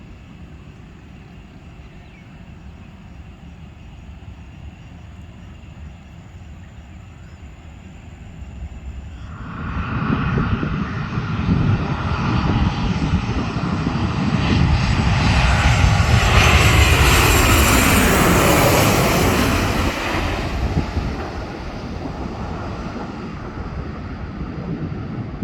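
Jet airliner, an Airbus A320 with CFM56 engines, flying past: quiet background at first, then the jet noise swells in about a third of the way through, peaks with a falling whine, and eases off to a lower rumble near the end.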